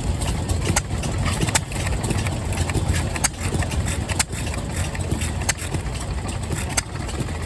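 Engine running with a steady low rumble, with sharp clicks at uneven spacing about once a second.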